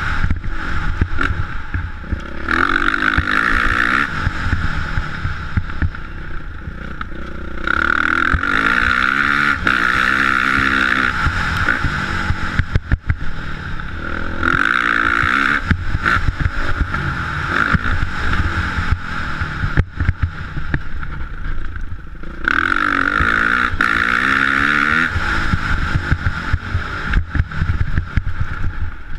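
Motocross bike engine revving up and falling back again and again, with four louder high-rev pulls. A constant low rumble lies underneath.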